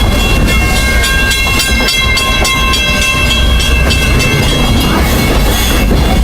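Steam train's passenger cars running along the track: a steady low rumble with clicks from the wheels over the rails. Several high steady tones sound together from about half a second in until about four and a half seconds.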